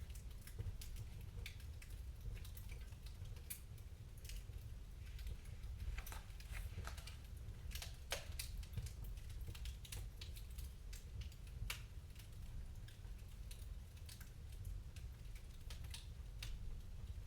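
Wood fire in a fireplace crackling, with irregular sharp pops and snaps, some louder than others, over a low steady rumble.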